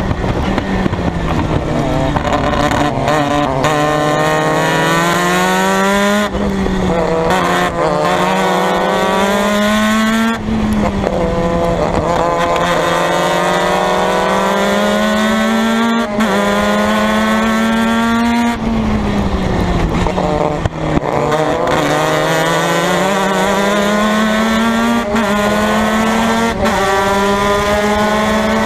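Formula Mazda race car's rotary engine at racing speed, its pitch climbing steadily through the revs and dropping sharply at each gear change, with a slower fall and climb near the middle as it slows for a corner and pulls away again.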